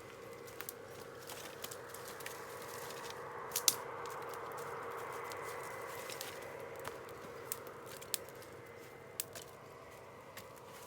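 Wood campfire crackling, with scattered sharp pops over a faint steady hiss and one louder snap a few seconds in.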